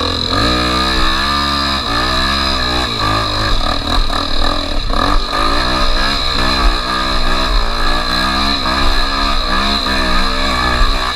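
Off-road motorcycle engine revving hard, its pitch rising and falling again and again as the throttle is worked, as on a steep dirt climb.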